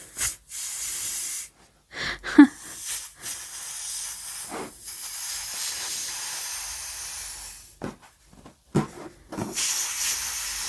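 Air hissing out through the neck of an inflated balloon, let out in three long stretches with short breaks between them. A brief squeak of stretched rubber comes in the first break.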